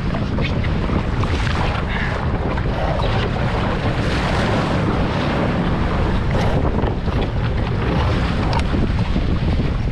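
Strong wind buffeting the microphone: a loud, steady rush with a heavy low rumble.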